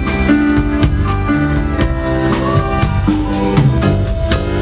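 Live pop band playing an instrumental passage between sung lines: a steady drum beat under held chords.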